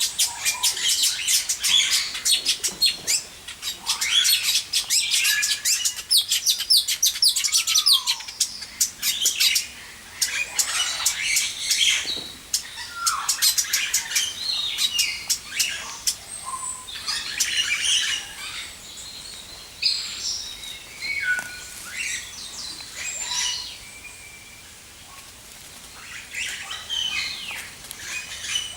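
Several birds chirping and twittering together. There are dense, rapid, high chirps for the first ten seconds or so, then scattered calls that thin out and grow quieter toward the end.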